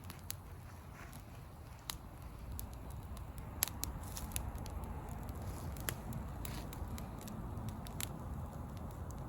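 Wood bonfire crackling, with irregular sharp pops, the loudest about three and a half seconds in, over a low steady rumble.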